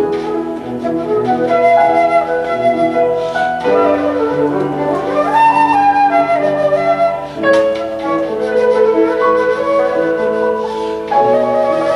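Flute playing a slow melody of held notes over piano accompaniment.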